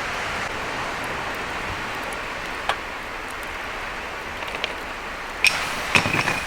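Steady hiss of outdoor ambience, with a single sharp click about two and a half seconds in and a cluster of knocks and a metallic clink near the end.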